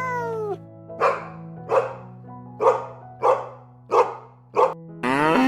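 A dog barking six times at an even pace over steady background music, after a short falling call at the start. A cow begins a long moo near the end.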